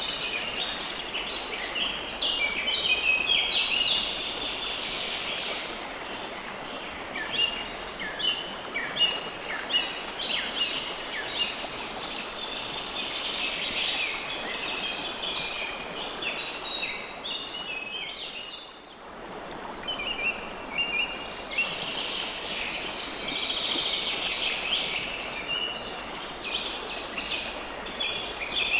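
A chorus of songbirds chirping and singing over the steady rush of a flowing stream. Both drop away briefly about two-thirds of the way through, then resume.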